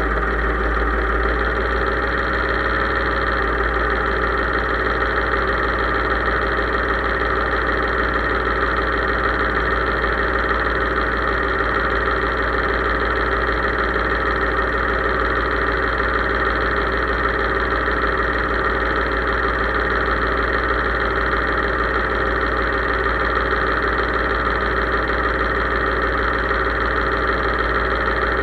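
Case IH 3220 tractor engine running at a steady speed, an even drone that does not change.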